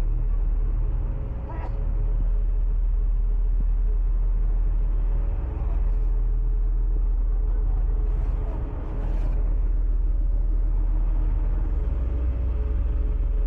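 Ferry's engines running with a steady low rumble and a faint hum.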